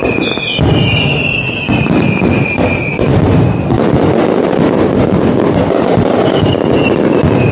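Aerial fireworks display: a dense run of bangs and crackling, with whistling fireworks whose whistles fall in pitch during the first three seconds and again near the end.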